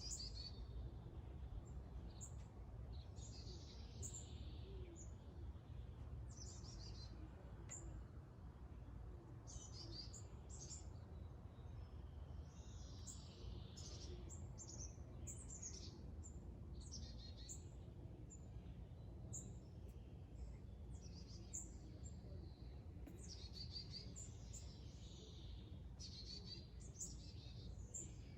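Several small birds chirping and singing in quick short calls throughout, over a faint low steady rumble.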